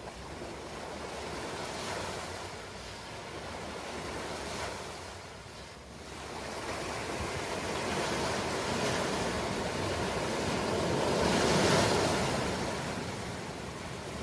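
Ocean surf: waves washing in and drawing back, swelling and easing in a slow rhythm. After a lull about six seconds in, a larger wave builds to the loudest point near the end, then falls away.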